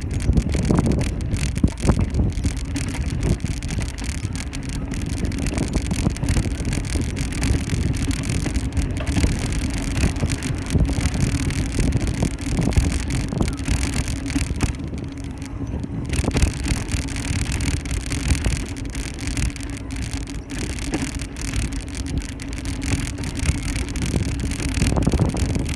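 A ride on a bicycle: wind rumbling on the microphone and the bike rattling over the road, with many small clicks and knocks. A steady low hum joins about three seconds in and keeps on.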